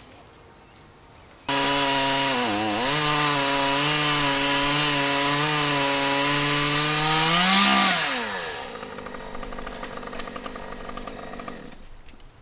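Two-stroke chainsaw at high throttle. It comes in abruptly about a second and a half in, dips in pitch briefly, then holds steady. It revs higher near eight seconds, winds down to idle and cuts off near the end.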